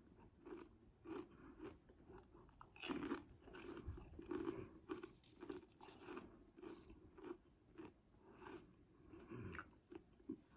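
A person chewing Doritos 3D Crunch corn snacks: faint, irregular crunches, a few a second.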